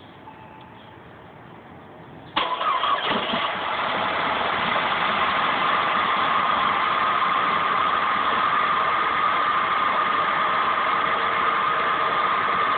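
2005 Saab 9-5 Aero's turbocharged 2.3-litre four-cylinder engine starting about two seconds in, then idling steadily. The engine has a misfire that a new direct ignition coil has not cured.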